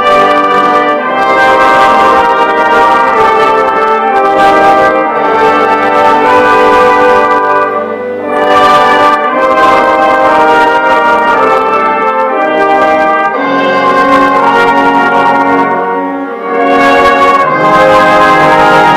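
Youth wind band playing in concert, brass to the fore with trombones and trumpets sounding full held chords. The music eases briefly twice between phrases.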